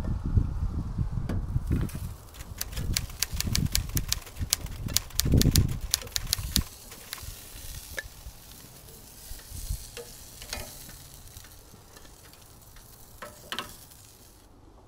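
Food being stirred and handled with a utensil: heavy low thumps and a quick run of sharp clicks for the first six seconds or so, then scattered single clicks over a faint hiss.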